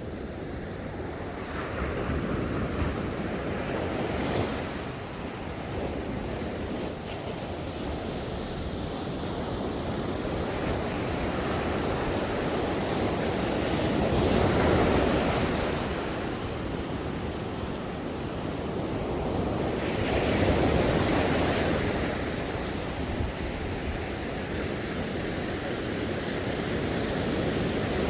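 Ocean waves breaking on a shore, a steady wash of surf that swells and ebbs as each wave comes in, several times.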